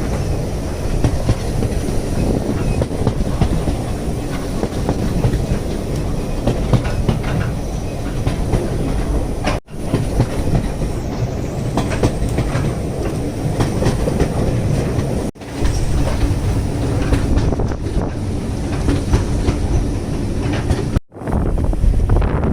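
Railway carriage running along the track: a steady low rumble with the clickety-clack of wheels over the rails. It is broken by three short gaps.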